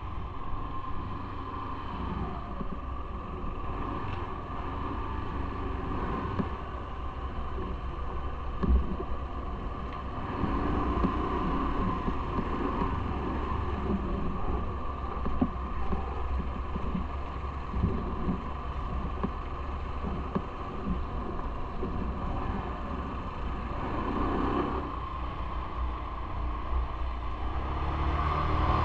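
Steady rumble and road noise of a moving vehicle, with occasional small knocks and rattles.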